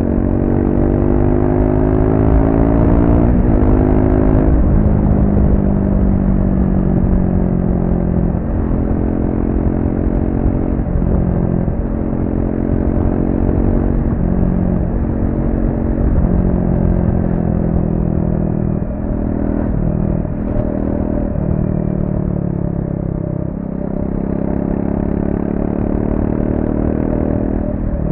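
Triumph Speed 400's single-cylinder engine running through its stock exhaust under way. The note climbs steadily for the first three seconds, drops sharply at a gear change, then keeps rising and falling with the throttle, with several more quick dips at shifts.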